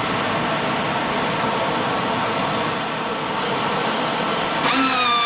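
Steady rushing noise, then about four and a half seconds in a pneumatic angle grinder spins up suddenly to a high, steady whine. It is being run hot in a run-to-failure test.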